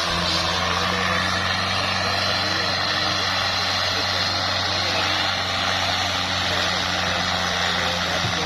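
Fiat 640 tractor's diesel engine running steadily at a constant speed.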